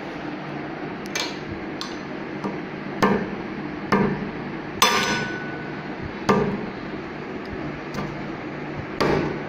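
A rock-hard frozen tomato piece being struck against a hard surface to break it: a series of sharp knocks, roughly one a second, the loudest about five seconds in with a brief ring after it.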